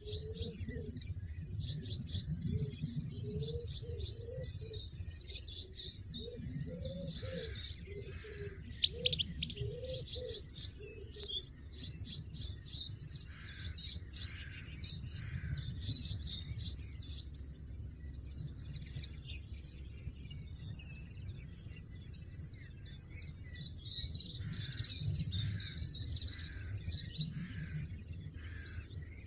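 Small songbirds chirping: a steady run of short, high, repeated notes through the first half, then a denser burst of twittering near the end.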